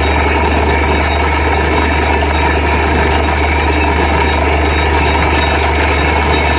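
Borewell drilling rig's engine and machinery running steadily, a constant loud drone with a strong low hum.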